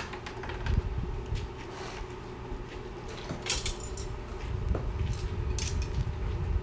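Steady low rumble with a few short, light metallic clinks and rustles.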